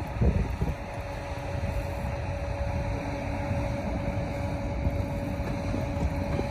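Wind rumbling on the microphone over a steady droning hum.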